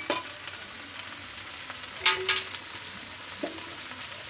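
Vegetables and spice paste sizzling in hot oil in a pan, with sharp clinks of a utensil against the pan: one just after the start and two about two seconds in.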